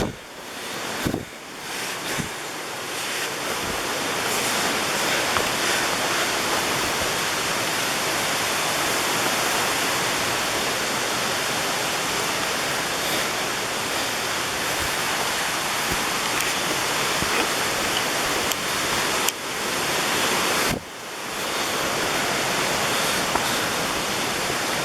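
Steady rush of falling water from a waterfall, building over the first few seconds and then holding even, with a brief drop about 21 s in.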